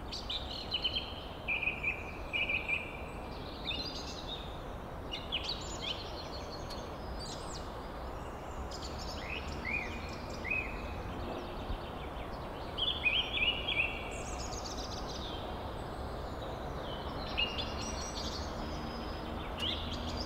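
Forest ambience: many birds chirping and whistling in short calls throughout, over a steady background hiss.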